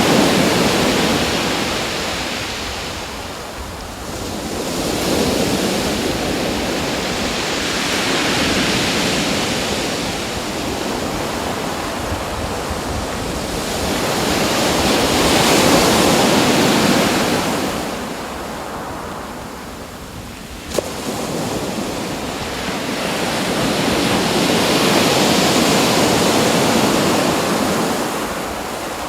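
Ocean waves washing in, the rush of surf swelling and falling back about every eight to ten seconds. A single sharp click about two-thirds of the way through.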